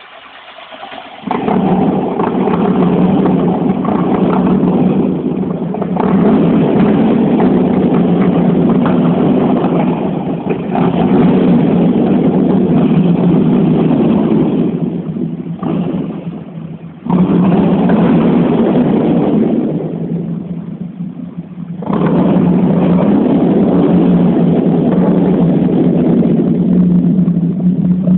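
Volkswagen AP 1.8S four-cylinder engine of a 1989 VW Voyage GLS being revved hard and held high, roaring loud. It jumps up about a second in, eases off twice in the second half, and picks up again each time.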